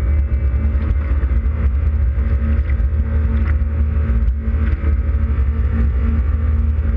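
2005 Yamaha WaveRunner FX Cruiser High Output's four-stroke engine running steadily under way, a loud, constant drone with a deep rumble.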